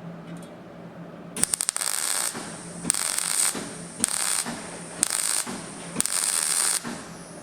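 Welding arc crackling in five short bursts on thin sheet-steel car sill panel, stitch-welding the gaps between tacks; the first burst starts with a few sharp clicks as the arc strikes.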